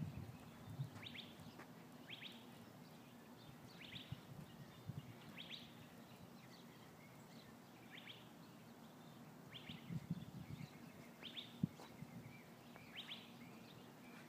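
A bird calling over and over, faintly: a short falling chirp repeated roughly once a second. A few low rumbles and a single sharp click come about ten to twelve seconds in.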